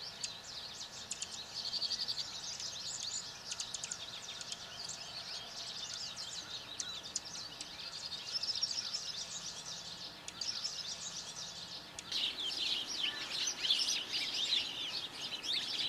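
Many birds chirping and calling at once, a dense, continuous chorus of short, high notes that grows louder about twelve seconds in.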